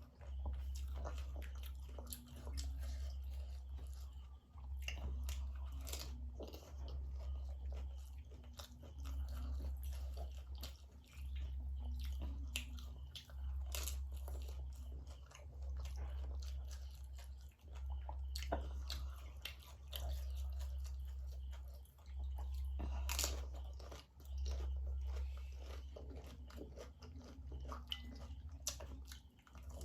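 Crisp panipuri (golgappa) shells crunching between the teeth, with bites and wet chewing of the pani-filled puris. Underneath runs a low hum that drops out briefly every second or two.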